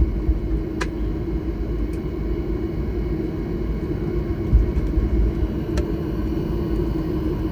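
Boeing 737 MAX 9 cabin noise while taxiing after landing: a steady low rumble with a constant hum, two faint clicks, and a low thud about four and a half seconds in.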